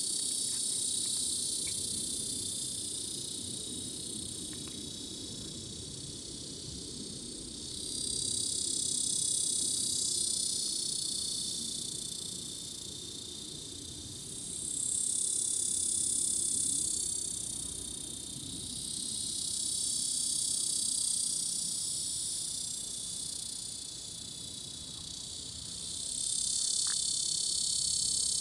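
Cicada shrilling: a continuous high-pitched buzz that swells louder and fades back several times.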